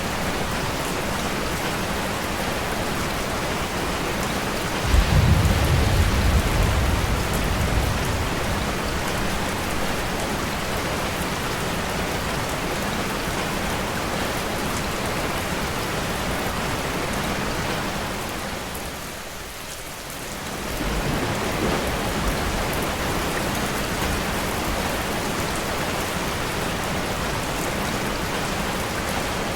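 Steady rain falling, with a sudden low clap of thunder about five seconds in that rumbles away over a few seconds. The rain briefly fades and comes back about two-thirds of the way through.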